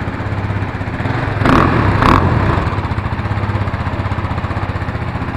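KTM RC390's single-cylinder engine idling, blipped twice in quick succession about a second and a half in, then settling back to idle.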